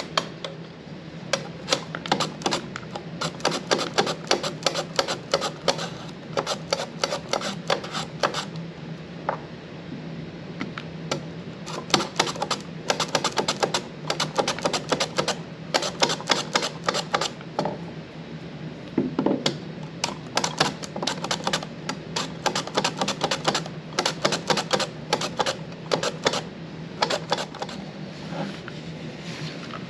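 French breakfast radishes being sliced on a mandoline: quick runs of sharp clicking strokes, several a second, as the radish is pushed back and forth over the blade, with a few short pauses.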